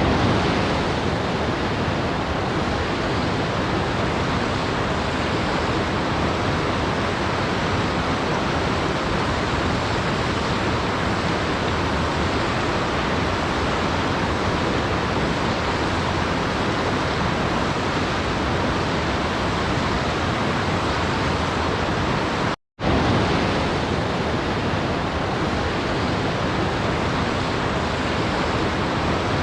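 Waterfall rushing, a steady even hiss of falling water. About three-quarters of the way through it cuts out for a split second and starts again.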